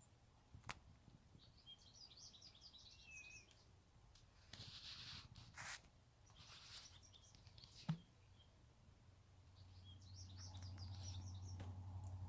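Faint twittering of small songbirds in two short spells, with a couple of sharp clicks and brief rustles of handling in between.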